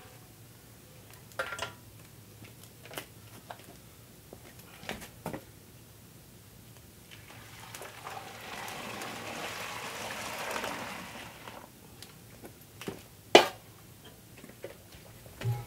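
Liquid pouring for about four seconds, starting about seven and a half seconds in. Scattered light knocks and clicks come before and after it, with one sharp, loud knock about two seconds after the pouring stops.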